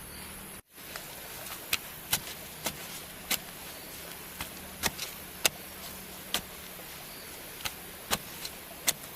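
Irregular sharp knocks and clicks, about fifteen over several seconds, over a steady high-pitched hiss.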